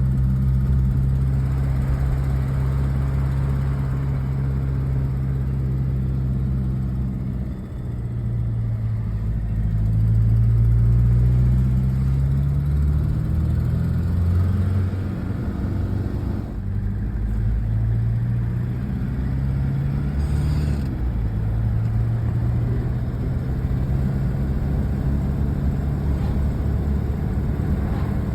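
Toyota Hilux engine running as the ute is driven, its note rising and falling several times with changes in speed and gear. The exhaust manifold has just been machined flat to cure an exhaust leak at number 4.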